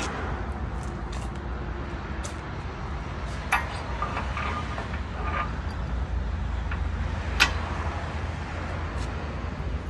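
Eastwind ZB 28 compact tractor's diesel engine idling steadily as a low rumble. Two sharp metallic clicks come about three and a half seconds in and, louder, about seven and a half seconds in.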